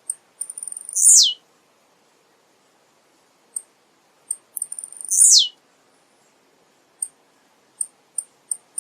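Male blue-black grassquit (tiziu) singing: short high ticking notes run into a buzzy phrase that drops steeply in pitch, given twice about four seconds apart, with a quickening string of ticks near the end.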